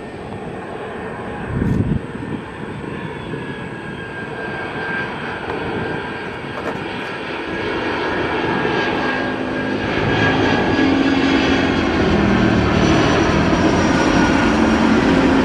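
Jet airliner's engines running, a steady rumble with faint steady tones that grows louder from about eight seconds in. There is a brief low thump near two seconds in.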